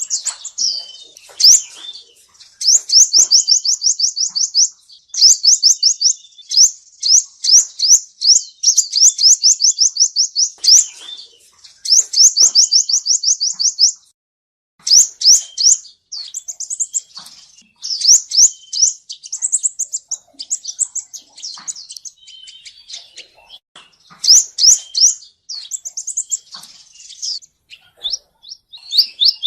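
A male sunbird singing fast trills of high, thin repeated notes in phrase after phrase, with a brief pause about halfway through.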